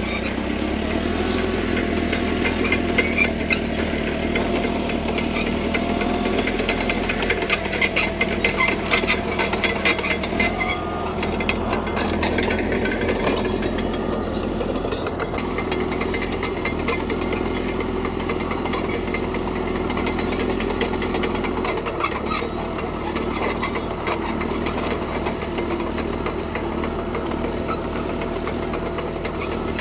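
CAT D3K crawler bulldozer working: its diesel engine runs steadily under a busy metallic clatter. The clatter is thick for about the first ten seconds, then eases off to a steadier engine note.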